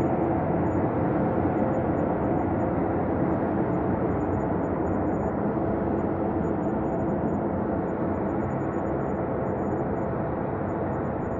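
Ambient space drone: a steady rumbling hum with faint held tones in it, easing slightly in level near the end.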